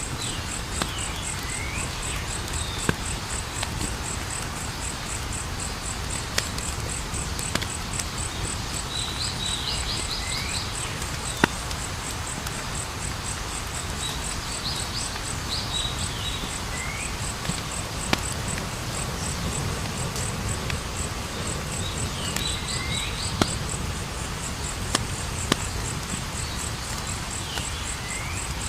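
Campfire crackling, with sharp pops scattered through it, over a steady high cricket trill. A short chirping call repeats about every six seconds.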